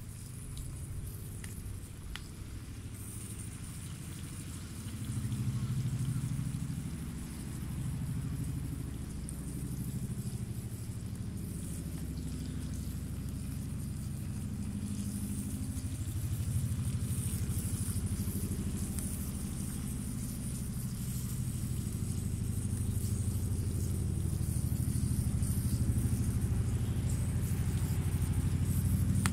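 Swedish torch (an upright split log) burning, with a low rumble that swells and eases and a faint high hiss.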